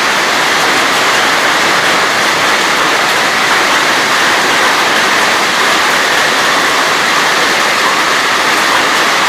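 Hailstorm: hailstones and heavy rain pelting down, a loud, steady, unbroken noise.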